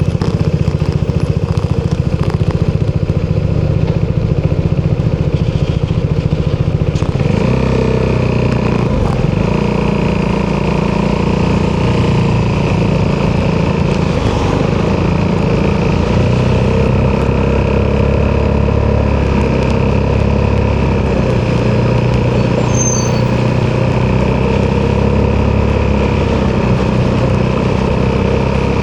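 Single-cylinder four-stroke engine of an Italjet Dragster 200 scooter running through an Akrapovic exhaust. It runs at low, pulsing revs at first, then about seven seconds in the revs rise and it carries on at a steadier, higher note with small rises and falls.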